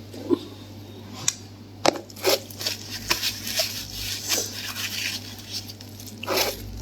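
Close-up eating sounds: chewing with a string of short, irregular wet clicks and smacks from the mouth.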